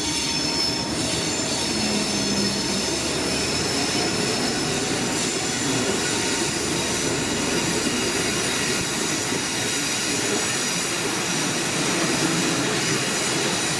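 Locomotive-hauled passenger train carriages rolling past at steady speed: a continuous rail rumble with high, steady wheel-squeal tones over it.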